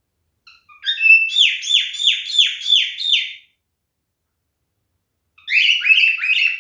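Male cockatiel calling: a few short chirps, then a run of about seven quick falling calls lasting a little over two seconds, and after a pause another burst of rapid calls near the end.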